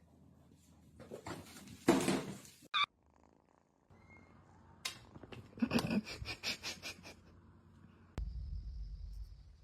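A cat making several short vocal sounds, one of them a quick pulsing run about six seconds in, with a low rumble starting near the end.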